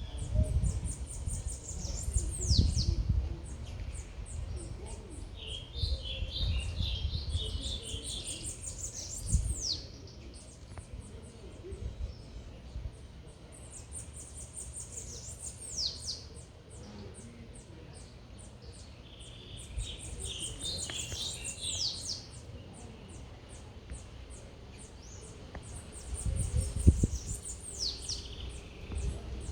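Small songbird singing: repeated phrases of rapid, very high-pitched notes ending in quick falling sweeps, coming back about every six seconds, with some lower chattering notes between. A low uneven rumble runs underneath.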